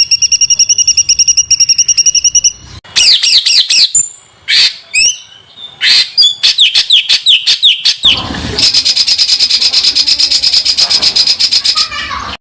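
Songbird song in rough, very dense bursts: a very fast high trill, then about three seconds in a string of quick downward-sweeping notes, then from about eight seconds another dense rapid trill. The parts change abruptly, as if spliced together.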